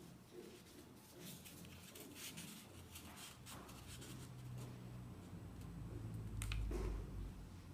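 Faint rustling and crinkling of a sheet of paper being handled and folded, with scattered soft clicks. A low rumble swells about six seconds in.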